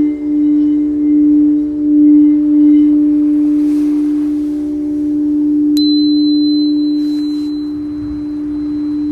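Crystal singing bowls ringing: one low bowl holds a steady tone that swells and fades in slow pulses, and a little past halfway a much higher tone is struck and rings on steadily above it.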